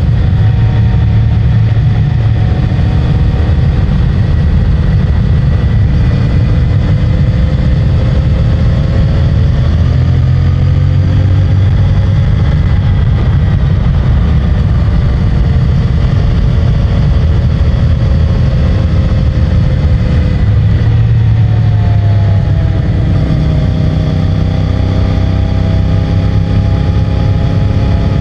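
CFMOTO 450MT's parallel-twin engine running under way, heard as a heavy low rumble. The revs climb about a third of the way in, ease off around three quarters of the way through, then climb again.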